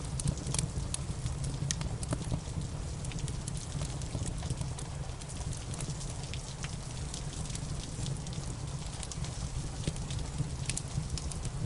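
Wood fire crackling, with many scattered sharp pops, over a steady hiss of rain and a low rumble.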